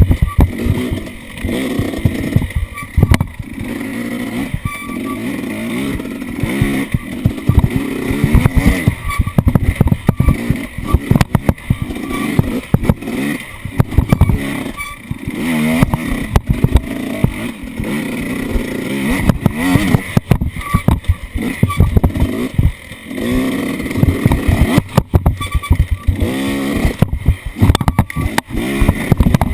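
Off-road vehicle engine running under changing throttle while riding over rough ground, its pitch rising and falling again and again, with frequent knocks and jolts.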